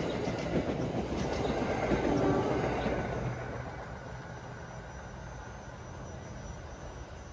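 NJ Transit Arrow electric multiple-unit train's wheels running on the rails as it passes and pulls away, the rail noise fading after about three seconds.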